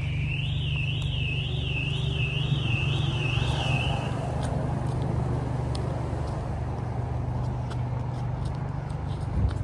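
A high electronic alarm tone warbling up and down about twice a second, stopping about four seconds in, over a steady low rumble of city traffic.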